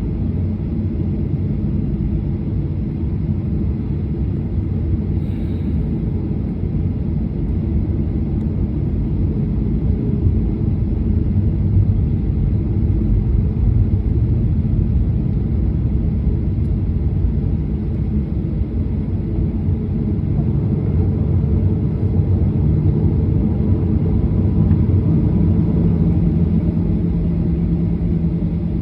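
Airliner cabin noise: the steady low rumble of jet engines and rushing air heard from inside the passenger cabin, with a low steady hum that comes in during the last several seconds.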